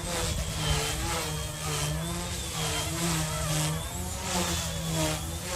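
Eachine E190 PRO RC helicopter in flight: a steady electric motor and rotor whine and buzz, its pitch wavering slightly up and down with throttle.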